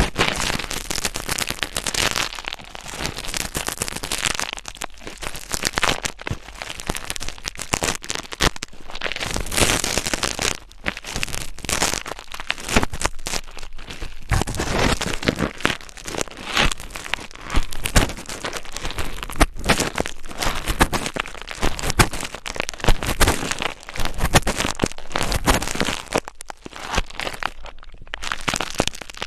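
Close-miked ASMR trigger sounds: a dense, irregular crackling and scratching that swells and fades, with no voice.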